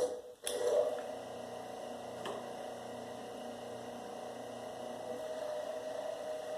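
Electric copper wire stripper's motor running steadily with a hum.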